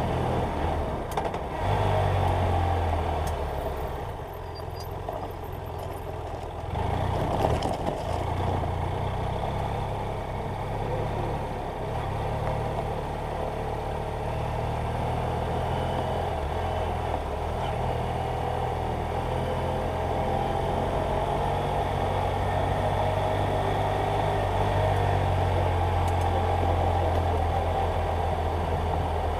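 BMW F800GS Adventure motorcycle's parallel-twin engine running on the move. The engine eases off about three seconds in and picks up again around seven seconds, then holds a steady note.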